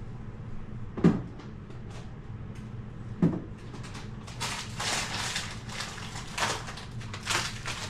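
Two sharp knocks, about a second and three seconds in, as frozen food items are set into a freezer bin. From about halfway on comes a run of crinkling and rustling of plastic food packaging.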